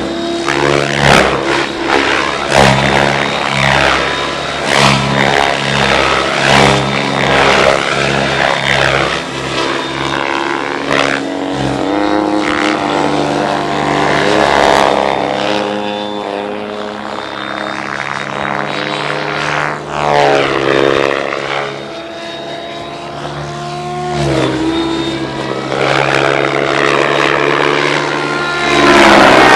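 RC helicopter flying 3D aerobatics: its rotor and motor drone keeps sliding up and down in pitch as it swoops and flips, and is loudest near the end.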